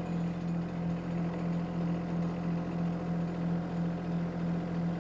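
Shanding 1.2-ton mini excavator's engine running steadily at a low throttle setting, a constant hum.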